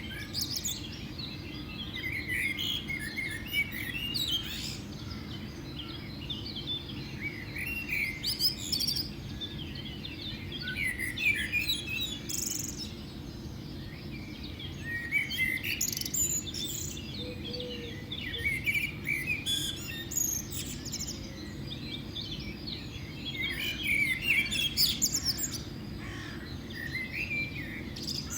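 Birds singing: bursts of quick, high chirping phrases that come back every three to four seconds over a steady low background rumble.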